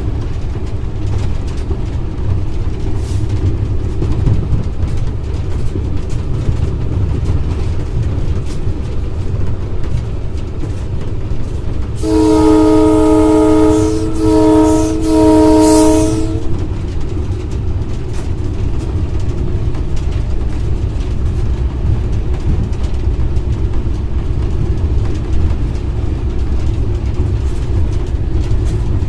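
GMU-30 diesel-electric locomotive running at speed, heard from the cab as a steady low rumble. About twelve seconds in, its multi-tone air horn sounds a chord in three blasts in quick succession over about four seconds, the first the longest.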